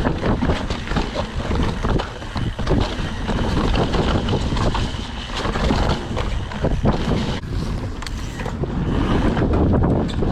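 Wind buffeting a chest-mounted GoPro as a Trek Session 9.9 downhill mountain bike rides a wet dirt trail: a steady rush of wind and tyre noise with frequent clattering knocks from the bike over bumps.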